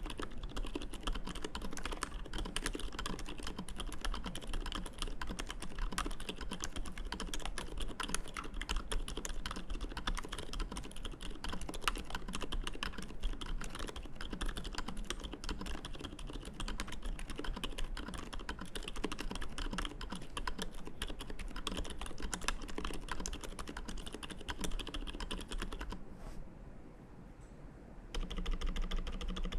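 Fast, continuous typing on an Arisu mechanical keyboard with lubed Boba switches, a 3 mm acrylic plate and acrylic case, and GMK keycaps. The keystrokes stop for about two seconds near the end, then start again.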